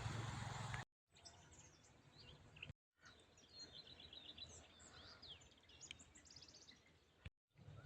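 Faint birdsong from several small birds, with quick chirps, trills and rapidly repeated high notes, broken by abrupt cuts between clips. The first second is covered by a louder low rumbling noise.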